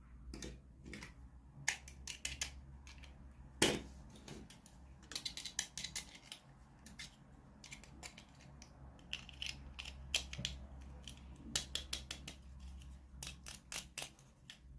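Toy packaging being handled and opened by hand: an irregular run of sharp crinkles, clicks and snaps, the loudest a single snap about three and a half seconds in, over a faint steady low hum.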